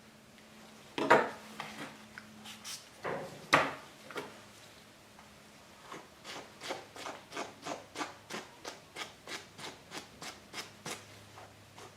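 A grooming tool stroking through a dog's coat: two louder strokes in the first few seconds, then a steady run of short strokes, about three a second, from halfway on.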